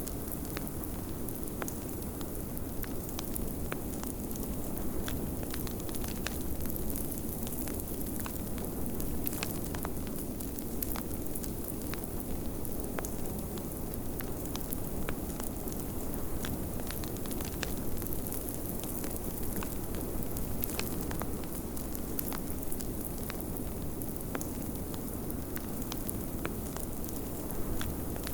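Wood fire crackling, with frequent irregular small pops and snaps, over a steady low rush of blizzard wind.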